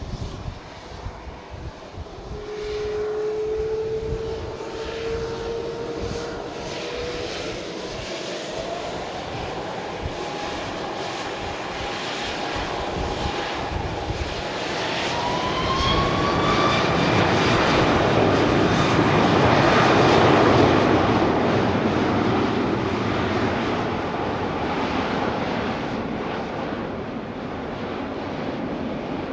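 Airliner's jet engines during a takeoff: a whine climbs in pitch as thrust builds, and the engine noise swells to its loudest about twenty seconds in as the plane passes, then slowly fades.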